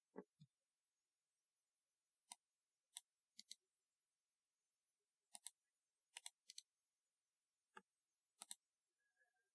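Typewriter-style keyboard keys clacking in slow, irregular keystrokes: about fifteen sharp clicks, some in quick pairs, with pauses of a second or two between them.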